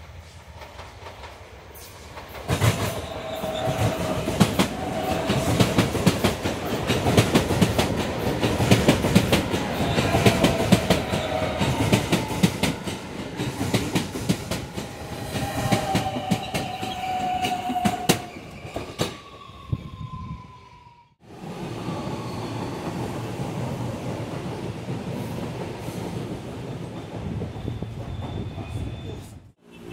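New Alstom electric multiple-unit passenger train passing close over yard switches at low speed: wheels clattering over the points and rail joints, with several brief wheel squeals and a falling whine as it draws away. After a cut about two-thirds of the way in, a steadier, quieter running noise of the train at a station platform.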